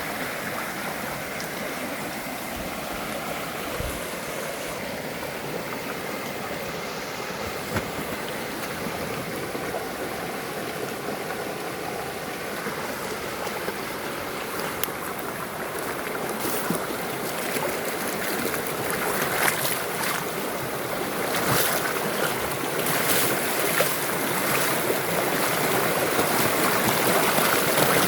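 Rushing water of a waterfall, a steady hiss that grows louder over the second half, with a few brief clicks.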